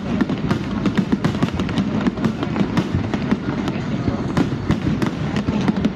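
Fireworks display: a rapid, irregular string of sharp bangs and crackles over a constant low rumble.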